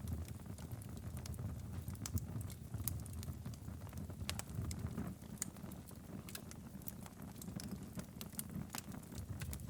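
Wood fire crackling in a fireplace: irregular sharp pops and snaps scattered over a steady low rumble of the burning logs.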